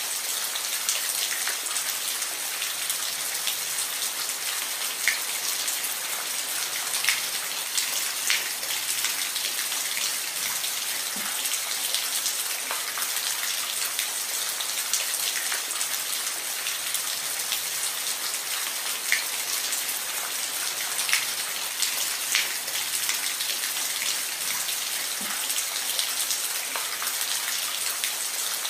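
Steady rain falling, an even hiss with individual drops ticking and pattering on a surface now and then.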